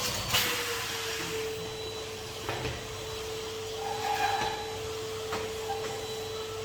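Henry HVR200 620-watt canister vacuum cleaner running with a steady whine that rises slightly in pitch over the first second or so. A few light knocks come over it.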